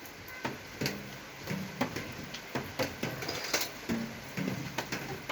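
A series of irregular light clicks and knocks, a few a second, some with a brief low ring.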